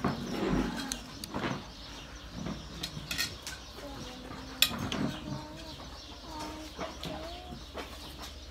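Farmyard birds calling with low, wavering calls, and a few sharp clicks, the loudest about halfway through.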